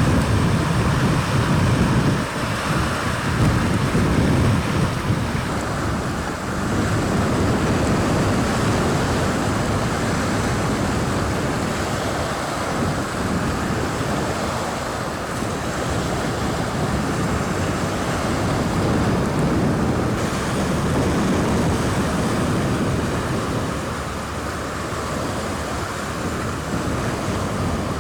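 Strong gusty wind buffeting the microphone over small waves breaking and washing on a river shore, with the gusts heaviest in the first few seconds.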